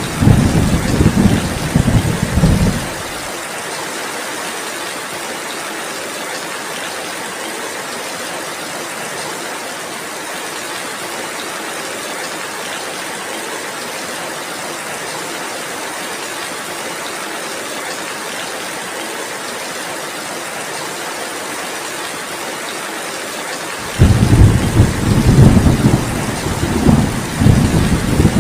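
Heavy rain falling steadily, with a low rumble of thunder at the start that dies away about three seconds in and returns near the end.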